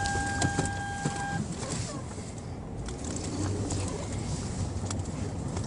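Car noise heard from inside a moving car, with a steady tone held over it that stops about a second and a half in, and a few faint clicks and knocks.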